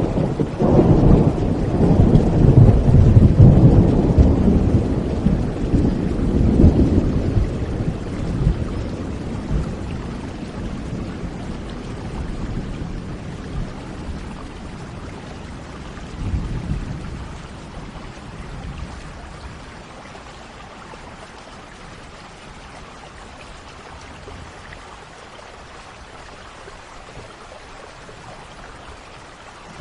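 Thunderstorm: a long roll of thunder rumbles loudest in the first several seconds and slowly dies away, with a smaller rumble about halfway through, over steady falling rain.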